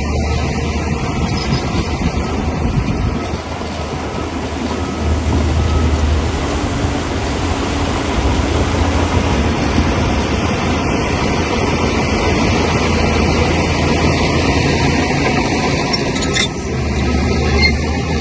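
Crawler bulldozer at work: the diesel engine runs steadily while its steel tracks clank and grind as it pushes rock. A single sharp knock sounds about sixteen seconds in.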